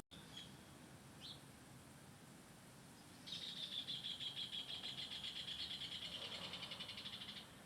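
A bird calling: a couple of short high chirps, then a fast, high-pitched trill held for about four seconds.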